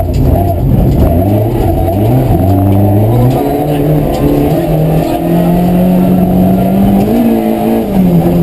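Rally car engine running hard under acceleration, its pitch climbing in steps through the first few seconds, then holding fairly steady with a brief dip near the end.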